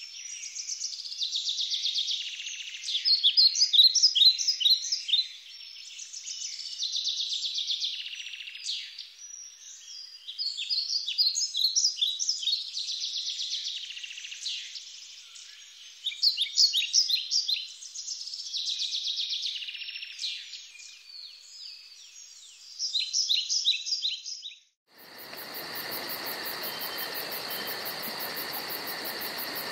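Small birds singing in quick, repeated bursts of chirps and trills. About 25 seconds in the birdsong cuts off abruptly and a steady, unbroken insect chorus takes over.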